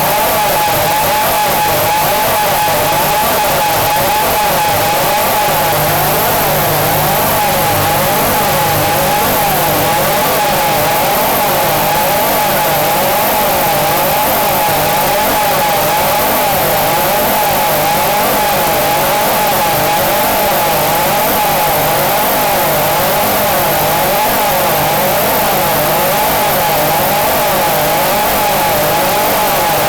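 Harsh experimental noise music: a loud, unbroken wall of distorted noise with a wavering, warbling tone in the middle, a steady low hum and a thin high whine.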